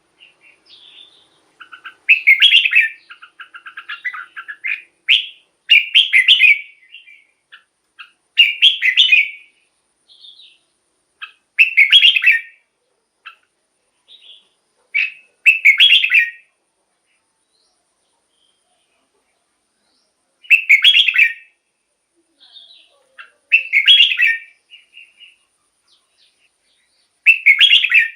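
Red-whiskered bulbul singing short, loud, chirpy song phrases, one every two to four seconds, with a pause of about four seconds a little past the middle.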